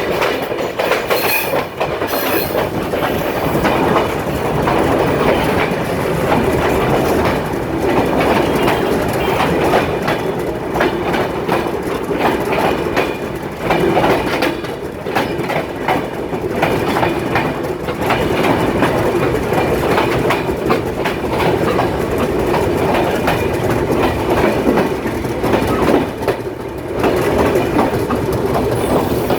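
A Bangladesh Railway train's wheels clattering steadily over the rail joints as the carriages roll by, loud and continuous throughout.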